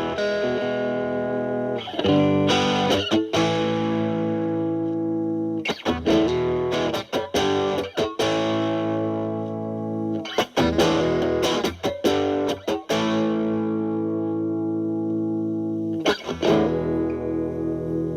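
Fender Stratocaster played through a Boss DS-2 Turbo Distortion pedal (turbo mode off, distortion around 10 o'clock) into the clean channel of a Marshall Valvestate amp. Long distorted chords ring out, broken four times by short choppy bursts of quick picking.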